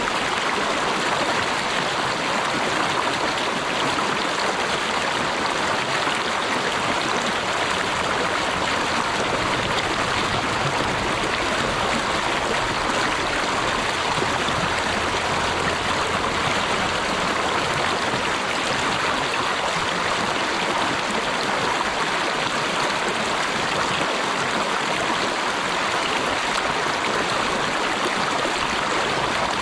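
Running water of a stream rushing steadily, an even, unbroken flow.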